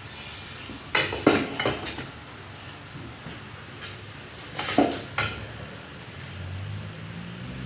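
Metal tools and axle parts clinking together while a rear axle bearing is being fitted, in two short clusters of sharp knocks about a second in and again around the middle.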